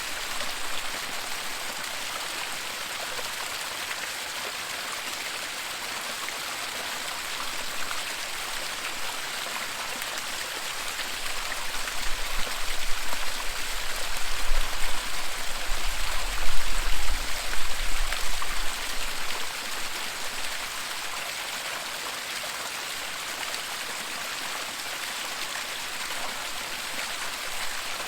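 Waterfall: a steady hiss of rushing, splashing water. A low rumble swells for several seconds about midway, then fades.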